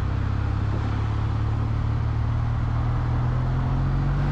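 Kawasaki W800 Cafe's air-cooled parallel-twin engine running at highway speed, its pitch rising slowly as the bike gathers speed, over a steady rush of wind and road noise.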